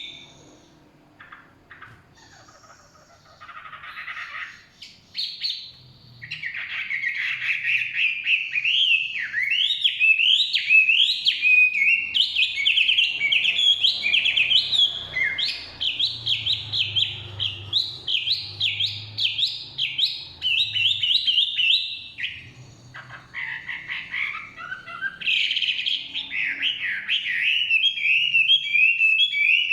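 Chinese hwamei singing: a long, fast run of rising and falling whistled notes, starting about five seconds in after a quiet spell, with a brief pause a little over two-thirds of the way through before the song resumes.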